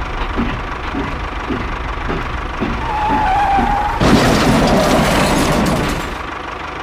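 Vehicle engine sound chugging in an even beat of about two low thuds a second, with a short tone just before four seconds in. Then a sudden loud rushing, skidding noise starts and eases off after about two seconds.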